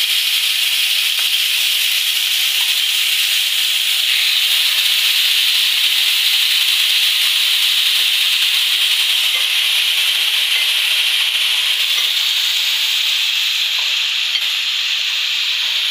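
Marinated chicken steaks sizzling in a lightly oiled ridged grill pan: a steady frying hiss with a few faint ticks.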